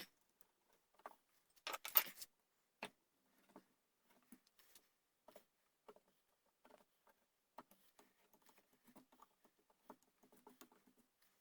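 Hand tools working a wooden gunstock as a buttplate is fitted: a short, louder scrape about two seconds in, then faint, scattered clicks and scrapes.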